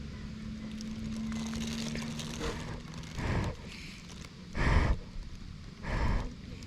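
Three short crunching noises, about a second and a half apart, after a faint steady low hum.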